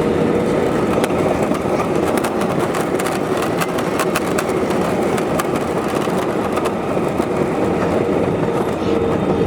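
Steady rolling rumble of a moving vehicle heard from inside, with a rapid run of rattling clicks through the middle and a faint steady whine underneath.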